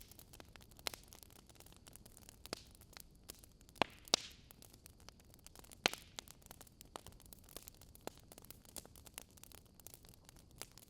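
Wood fire crackling: irregular small pops and snaps over a faint hiss, with a few louder snaps around the middle.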